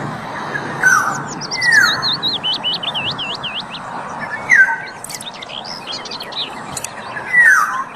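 Black-naped oriole (kepodang) calling: four loud, downward-slurred calls, about a second in, near two seconds, around four and a half seconds and near the end. Between them runs a quick series of higher, rising-and-falling chirps.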